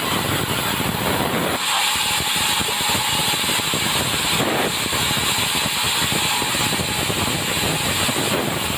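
Sawmill running and cutting timber: a loud, steady rushing machine noise whose tone turns brighter and thinner about a second and a half in.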